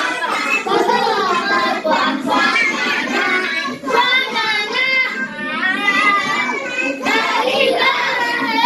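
Young children singing a song in the Atayal language, their voices moving through a bouncing, repetitive melody.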